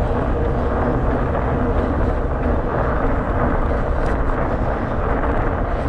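Steady rushing noise while riding a fat bike, mostly wind buffeting the camera's microphone, heaviest in the low end.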